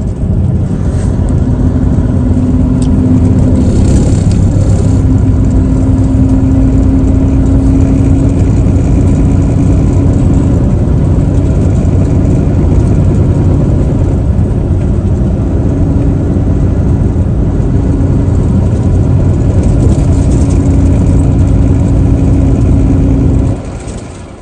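Truck engine running under way with steady road noise and an on-and-off droning hum. The noise drops away sharply about a second before the end.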